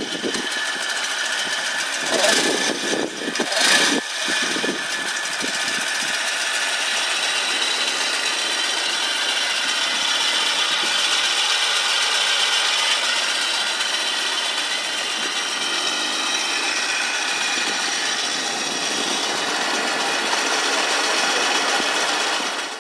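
Supercharged Honda Monkey Z50 pitbike engine running steadily with a high whine, with brief louder surges about two and four seconds in.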